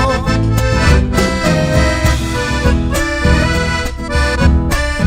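An accordion-led instrumental passage of Argentine folk music (zamba/chacarera) played live, over a steady bass line and regular percussive beats, between sung verses.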